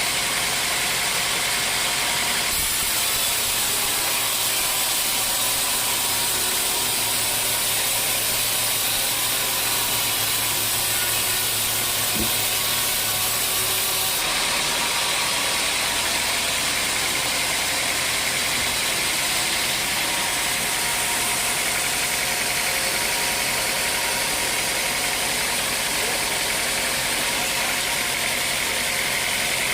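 Sawmill machinery running steadily, a loud, even machine noise with a strong high hiss. The sound shifts abruptly a few seconds in and again about halfway through.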